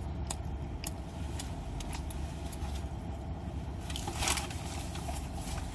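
Steady low rumble of an idling car heard from inside the cabin, with scattered small clicks and a brief rustle about four seconds in.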